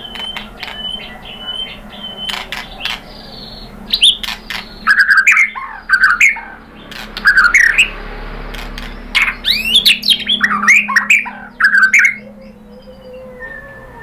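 White-rumped shama singing in an agitated way. It gives short repeated whistled notes and sharp ticks at first, then loud bursts of fast, varied whistles and harsh squawking notes from about four seconds in until near the end.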